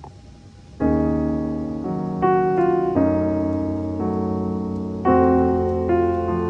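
Background music: slow piano chords, struck about every one to two seconds and left to ring and fade, starting just under a second in.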